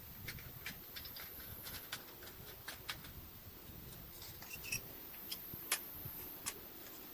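A scatter of light, irregular clicks and ticks. The sharpest comes near six seconds in.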